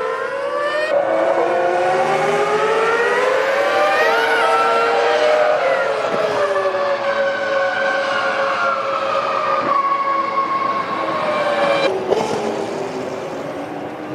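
Formula One cars' V10 engines screaming at high revs. The pitch rises and falls with gear changes and cars passing, and the sound changes abruptly at a few cuts between shots.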